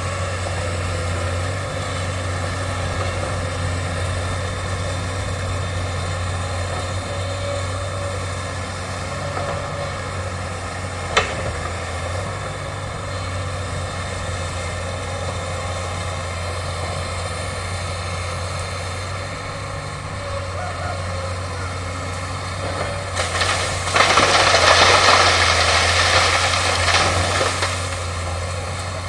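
Excavator's diesel engine running steadily, with a single sharp crack about eleven seconds in and a loud, noisy four-second burst near the end as the machine works through bamboo.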